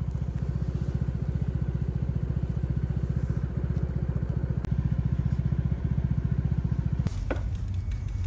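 An engine running with a fast, even low throb. The sound shifts about seven seconds in.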